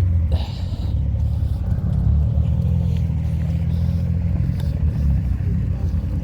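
A car engine running nearby with a steady low rumble as a car sets off.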